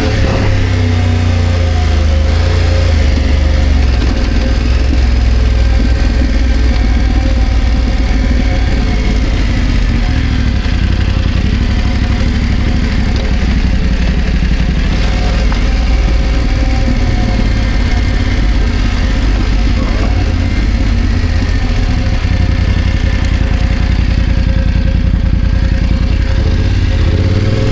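BMW F900GS parallel-twin engine running under way, a steady engine note that shifts in pitch with the throttle briefly near the start and again near the end.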